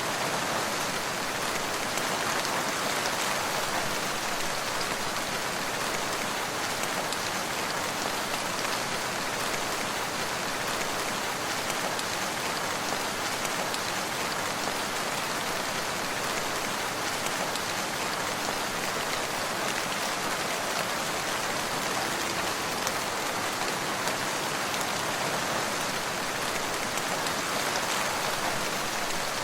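Steady rain falling, an even hiss of many drops on surfaces with no thunder or lulls.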